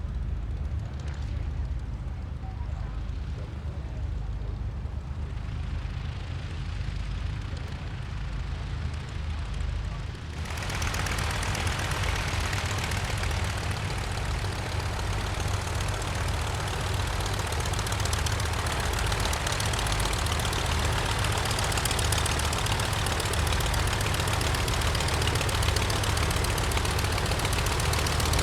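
Light aircraft piston engine and propeller running, with a fast low pulsing beat. About ten seconds in, a loud steady rushing hiss comes in over it and holds.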